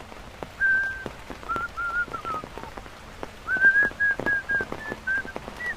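Someone whistling a tune in two phrases of held and sliding notes, over steady rain pattering with scattered drop ticks.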